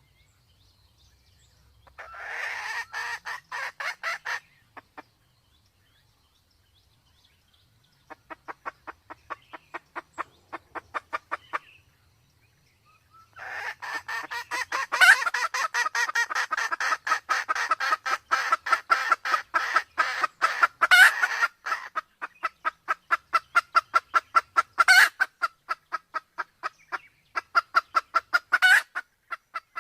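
Red junglefowl hen calling in rapid runs of clucks, about six a second, in three bouts with short pauses, the longest and loudest from about halfway through. The hen is in breeding condition, the kind of call used as a lure to draw wild junglefowl in.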